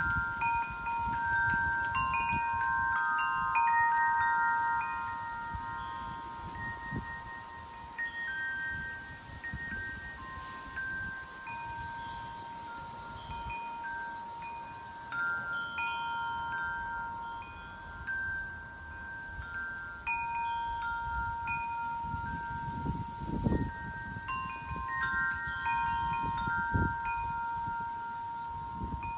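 Wind chimes ringing in the wind, several long ringing tones of different pitch struck one after another and overlapping as they fade. Low gusts of wind rumble on the microphone now and then, strongest a little past two-thirds through.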